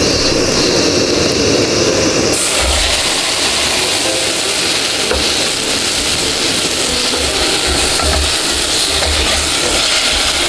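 Steady sizzle and hiss from a pot on a camp gas stove as chopped tomatoes fry in curry paste. The sound changes a little over two seconds in.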